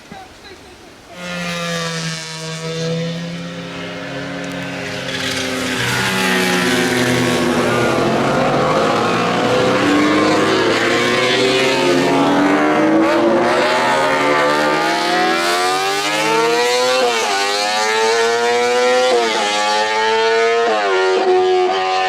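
Motorcycle engine running hard on a race track, louder from about five seconds in: its pitch sinks, then climbs as it accelerates, with three quick upshifts near the end, each a sudden drop in pitch.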